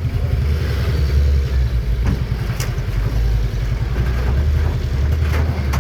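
Dump truck engine running with a steady, deep low rumble.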